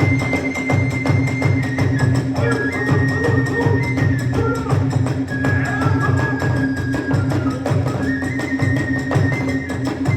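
Kagura hayashi ensemble playing: a transverse bamboo flute holds long high notes that step from one pitch to another, over low drum strokes and a dense, rapid clatter of hand cymbals.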